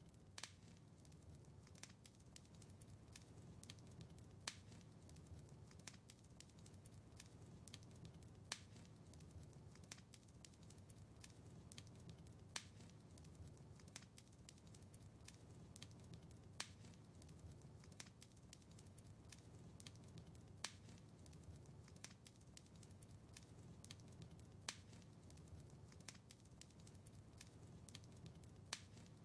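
Wood fire crackling in a fireplace, quiet: many small sharp snaps and pops over a low, steady rumble, with a louder pop about every four seconds.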